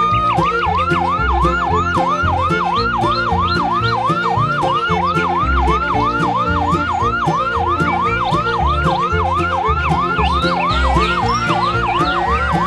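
Ambulance siren yelping in fast repeated sweeps, about three a second, after a slow rising wail at the start, over background music with a steady beat.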